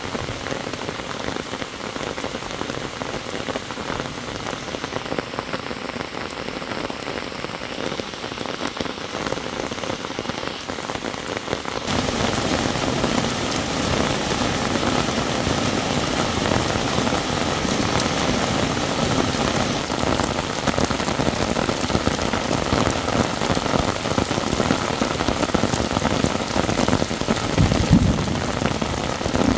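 Heavy monsoon rain falling steadily in an even hiss. About twelve seconds in it turns louder and fuller, as rain pours off the edge of a roof. There is a short low rumble near the end.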